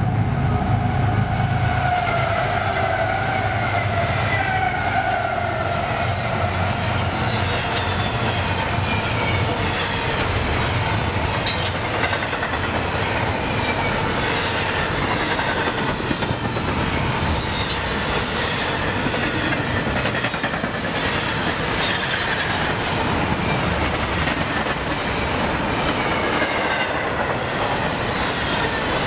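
Union Pacific double-stack intermodal freight train passing: diesel locomotive rumble, strongest in the first few seconds, with several tones sliding downward, then the steady rolling of the cars with repeated clickety-clack of wheels over rail joints.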